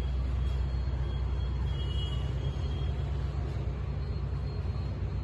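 Steady low machine hum with a faint background hiss.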